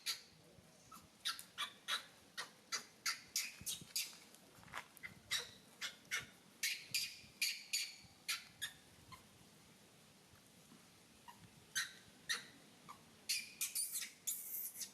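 Monkey giving short, high-pitched squeaks in quick runs of several a second, falling quiet for a couple of seconds about halfway through.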